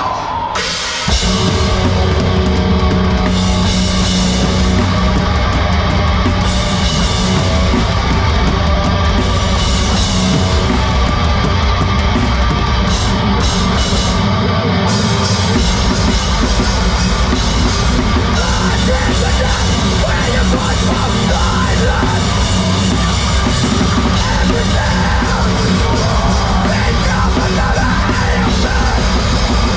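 A heavy rock band playing live at full volume, with a drum kit; the whole band comes in suddenly about a second in and plays on without a break.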